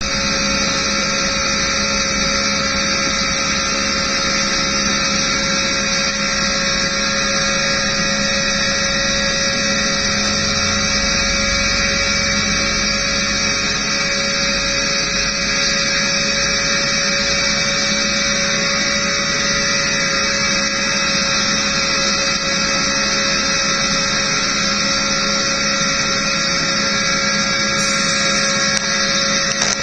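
NASCAR race truck V8 engine held at a steady full-throttle drone, with no rise or fall in pitch, as at flat-out superspeedway speed.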